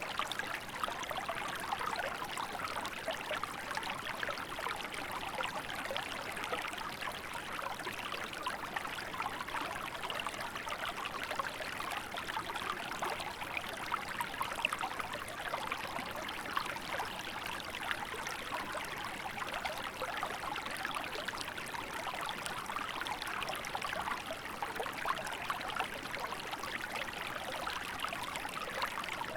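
Small river flowing in winter: a steady babble and trickle of water running over rocks, with no breaks.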